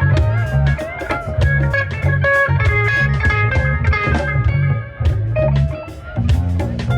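Live band playing an instrumental funk-rock groove: lead electric guitar over a bass guitar line and a drum kit with frequent hits.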